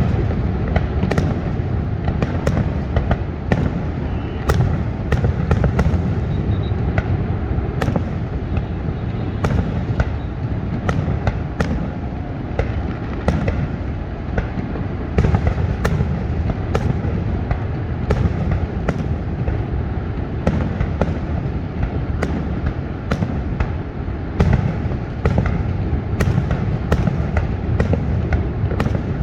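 Fireworks finale: a dense, continuous string of sharp bangs and booms, about two a second, over a steady low rumble.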